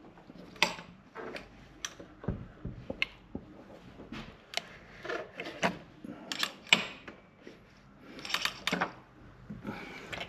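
Hand tools and metal engine parts clinking, tapping and scraping in irregular sharp knocks while a seized two-stroke minibike engine is dismantled.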